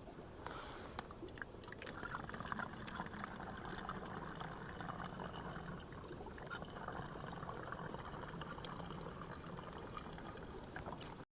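Small creek trickling: a steady sound of running water with many small splashes, which cuts off suddenly near the end.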